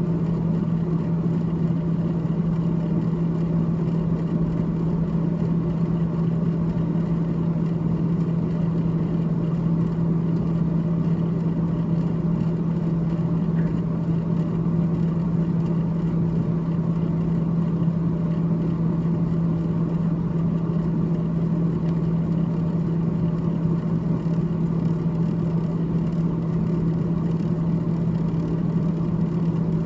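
Freezer fan of a GE GTH18XCTZRBB refrigerator running: a steady hum with a whir of moving air, unchanging throughout.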